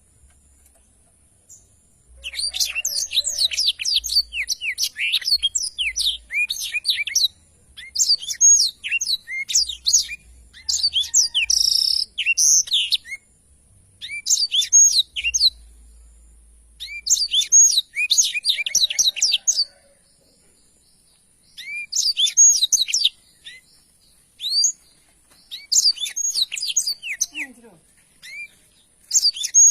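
Black-throated canary (blackthroat) in full song: repeated phrases of rapid, high twittering notes, each lasting a second or two, separated by short pauses.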